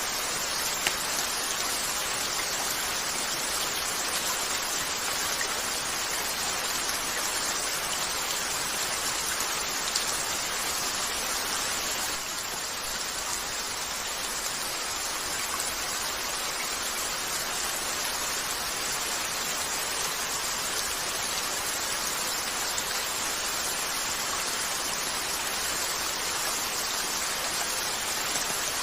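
Steady gentle rain falling on a window, an even hiss, with a couple of small clicks about a second in and about ten seconds in.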